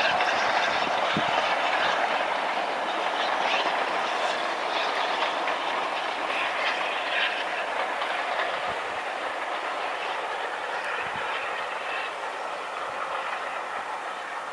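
Steam-hauled train running along the track, its carriage wheels clattering over the rails, steadily fading as it moves away.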